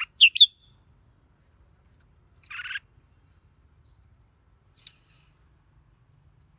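Red-whiskered bulbul calling in short, separate notes: a quick pair of sharp notes right at the start, a longer, rougher note about two and a half seconds in, and a faint short note near five seconds.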